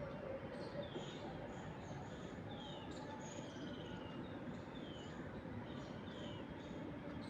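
Small birds chirping, short falling chirps repeated about once a second with some higher notes, over a steady hiss of wind in the trees.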